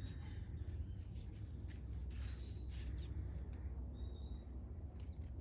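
Outdoor natural ambience: a steady low rumble with a thin, steady high insect-like drone, a few scattered clicks, and one short high note, like a bird call, about four seconds in.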